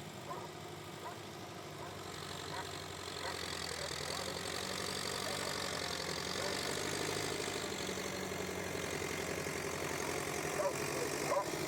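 An engine running steadily with a low hum, growing louder over the first five seconds or so and then holding level.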